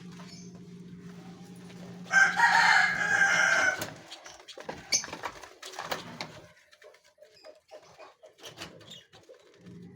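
A loud, drawn-out bird call lasting about a second and a half, starting about two seconds in, over a steady low hum that drops away midway; scattered small clicks and chirps follow.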